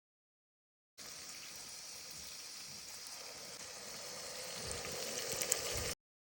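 Gravy cooking in a hot pan: a steady watery hissing and bubbling that starts after about a second of silence and grows louder toward the end, with a few sharper pops, then cuts off.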